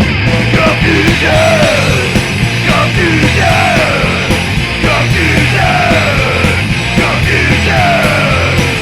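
Loud punk rock recording with distorted band instrumentation, a short bending melodic line repeated over and over.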